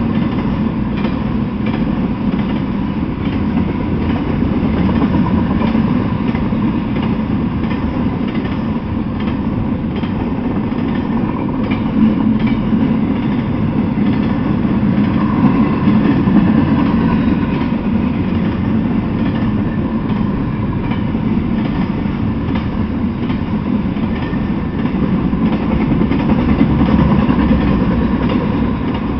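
Freight train cars, flatcars carrying intermodal trailers, rolling past at speed: a steady rumble of steel wheels on rail with light, repeated clicking.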